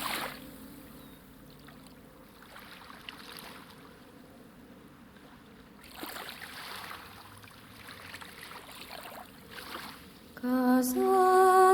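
Faint water lapping and splashing in soft surges. Near the end, music with a held, hummed or sung melody comes in and is much louder.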